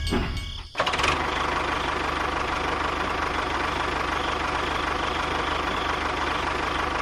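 Homemade mini tractor cultivator's small engine running steadily with a fast, even beat. It starts abruptly under a second in, after a different sound cuts off.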